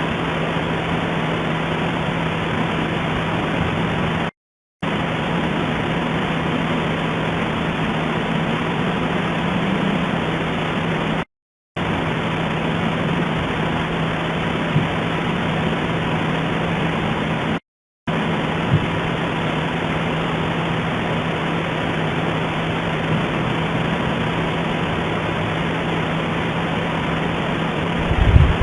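Steady hiss with a constant low hum, broken three times by a split second of silence; a short low thump comes near the end.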